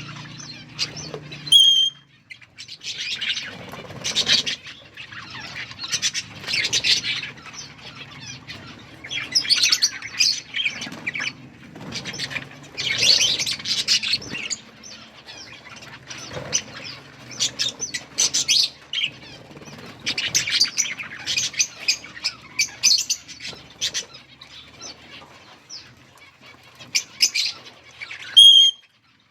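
A flock of budgerigars chirping and chattering in repeated bursts, with brief lulls between them.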